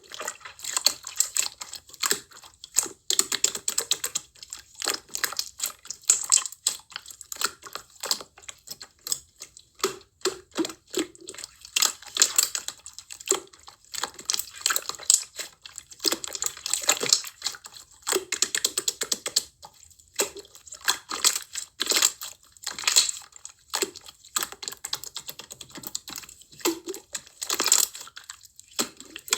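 Slime being squeezed, pressed and stretched by hand, giving a continuous run of rapid, irregular sticky clicks and crackles.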